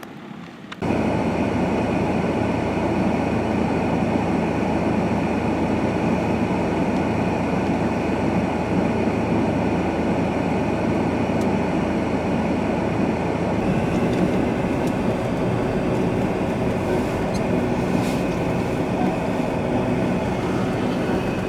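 Steady, loud rumble of a vehicle in motion that starts abruptly about a second in.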